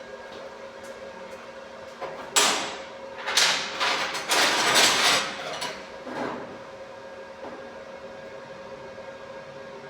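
Metal being worked by hand: a sharp knock, then several harsh scraping or rasping stretches over a few seconds, against a steady machine hum.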